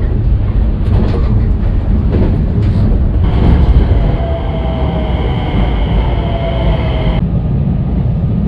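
Local Japanese passenger train running, with a loud, steady low rumble. About three seconds in, a high steady whine joins it, lasts about four seconds, and cuts off suddenly.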